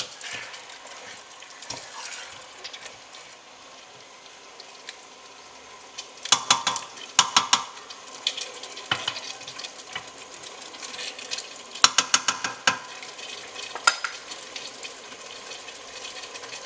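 Chicken frying in a stainless steel pot of spiced onions and oil, a steady sizzle, as a wooden spoon stirs it. The spoon scrapes and clatters against the pot in short runs of clicks, about six seconds in and again around twelve seconds.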